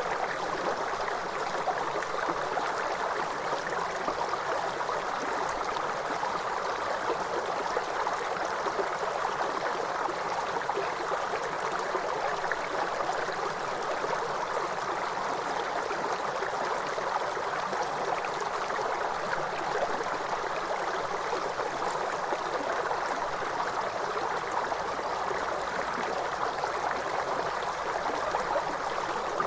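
Steady rushing and splashing of a waterfall, an even, unchanging noise.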